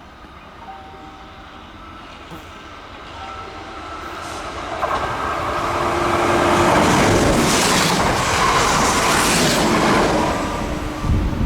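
A Kintetsu electric train approaching and passing close by: its running noise builds over several seconds to a loud spell of wheel and rail noise, then eases off near the end.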